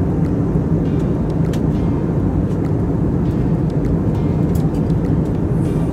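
Jet airliner cabin noise: a steady, loud engine and airflow rumble with a low hum running through it.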